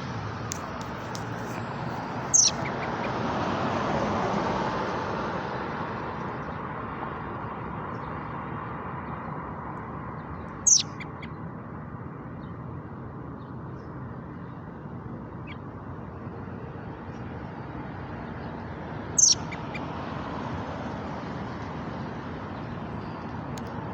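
A small bird chirping: three short, high chirps, each about eight seconds apart. Steady traffic noise underneath, with a vehicle passing a few seconds in.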